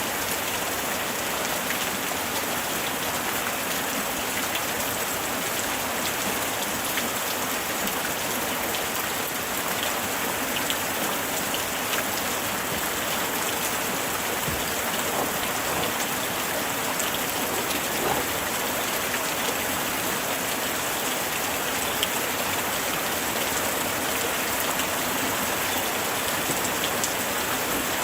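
Light rain falling steadily, with scattered individual drops ticking through the even hiss.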